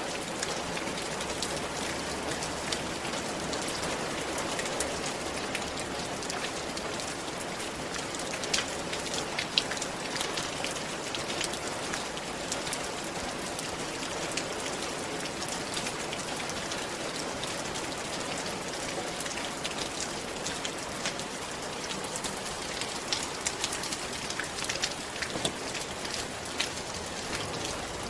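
Steady rain falling on a roof, a continuous patter with scattered sharper drop hits, a few louder ones in the middle and again near the end.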